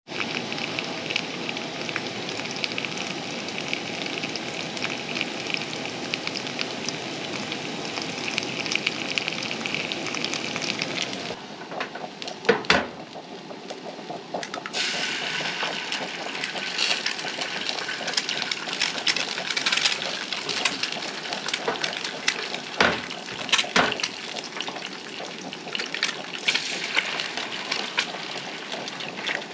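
Sausages and diced potatoes frying in a pan on a propane camp stove: steady sizzling and crackling. The sizzle drops off briefly partway through, then comes back, with a few sharp knocks of the pan or utensils.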